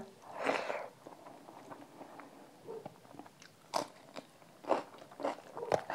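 Close-miked chewing of a hand-fed mouthful of rice and matar dal: soft wet mouth noise at first, then a few sharp crunches from about four seconds in.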